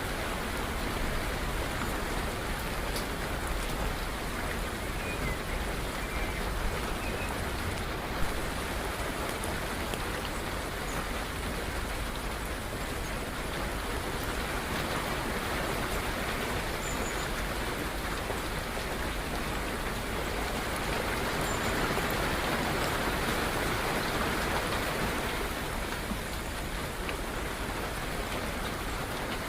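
Steady rain falling, swelling a little about two-thirds of the way through, with a few faint, short, high bird chirps above it.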